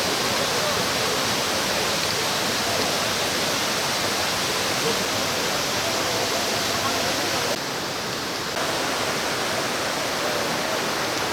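Steady rush of a mountain valley stream, water pouring over rocks, with a brief slight dip in level about two-thirds of the way through.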